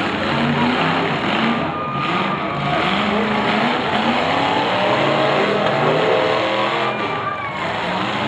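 Engines of several demolition derby cars running and revving together, their pitch rising and falling as the drivers push and ram.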